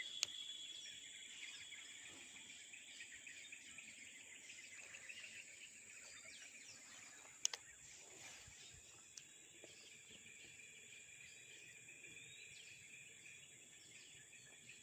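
Faint steady chorus of insects, several high-pitched trills held together without a break. Two short sharp clicks stand out, a small one right at the start and a louder one about halfway through.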